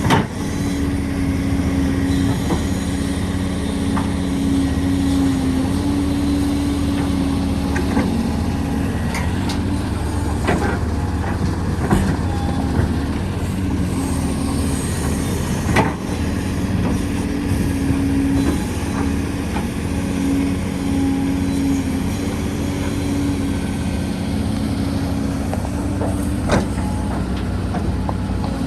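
Heavy earthmoving machinery running: a steady engine drone with a held tone that shifts slightly in pitch, broken by a few sharp knocks.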